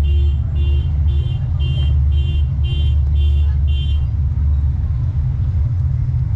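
Car alarm sounding a rapid beeping tone, about two beeps a second, which stops about four seconds in, over a steady low rumble.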